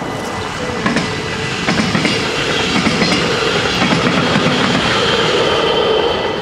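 A Dutch NS double-deck electric train passes over a level crossing, its wheels clicking over the rail joints, while the crossing's warning bells keep ringing steadily. The train noise swells about a second in and starts to fall away near the end as the last carriage clears the crossing.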